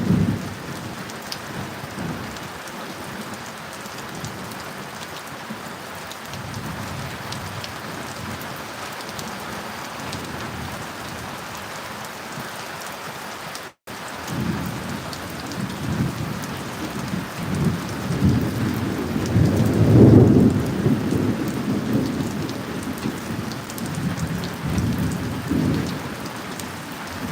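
Steady rain with rolling thunder. The rumbles grow heavier in the second half and peak about two-thirds of the way through, with a split-second dropout to silence near the middle.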